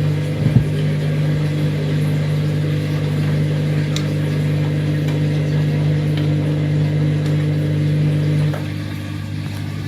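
Washing machine motor running with a steady hum, turning a drum loaded with double the usual detergent and full of foam. There is a brief knock about half a second in, and the hum drops away and gets quieter shortly before the end.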